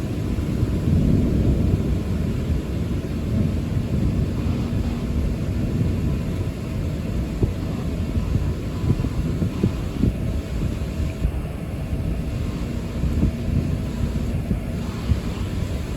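Thunder rolling in a long, continuous low rumble that swells and eases without a break.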